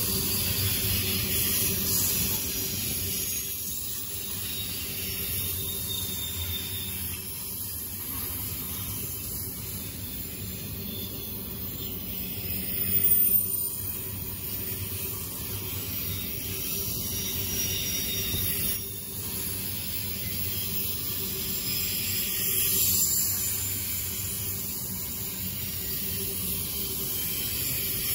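Double-stack intermodal freight train cars rolling past: a steady rumble and hiss of steel wheels on the rails, with a brief louder swell about halfway through and a smaller one later.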